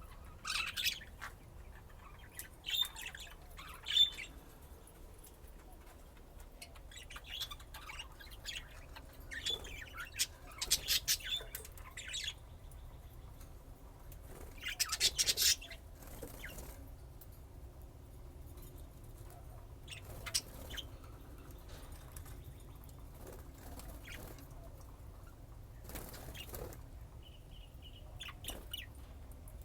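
Pet budgerigars chirping and chattering in short bursts, most active in the first half, then only occasional fainter chirps.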